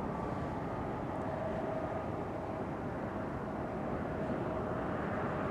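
Jet airliner engines running at taxi power: a steady rumble with a faint steady whine through the middle.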